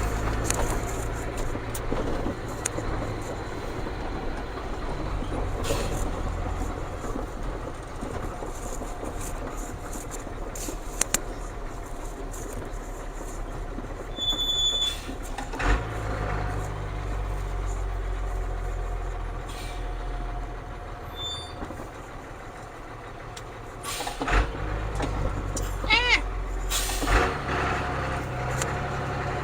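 Ford CF7000 truck's 6.6-litre Brazil diesel engine running while driving, a steady low drone. Its note changes about halfway through and again near the end.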